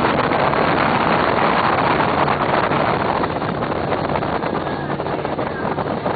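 Fountain powerboat running on the water, a steady engine drone under heavy rush of wind and water on the microphone, easing off a little towards the end.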